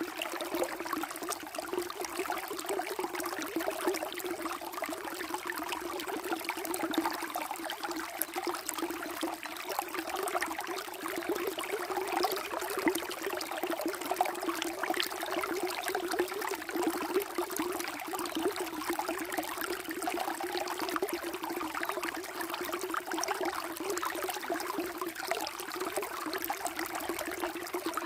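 Water flowing and trickling steadily, a constant rush with small splashing crackles throughout.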